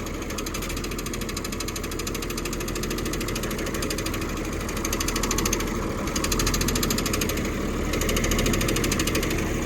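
John Deere motor grader's diesel engine running steadily with an even clatter, getting a little louder about five seconds in.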